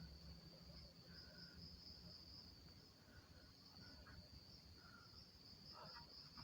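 Near silence with a faint, steady, high-pitched insect drone, like crickets or cicadas, and a few faint short chirps over it.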